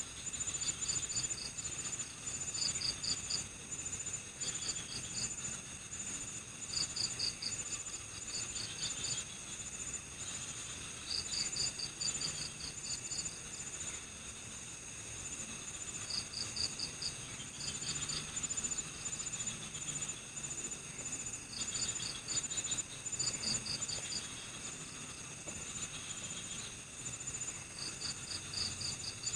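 Night chorus of crickets: one high, steady rapid trill runs beneath other crickets chirping in short pulsed bursts that repeat every second or two.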